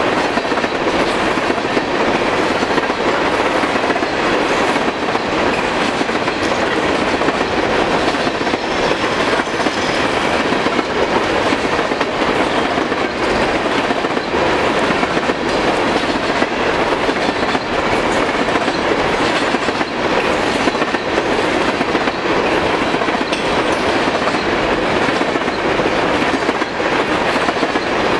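Empty open-top coal hopper cars of a long freight train rolling past at speed: a steady, loud rumble and rattle of steel wheels on the rails, with a constant clickety-clack of the wheels.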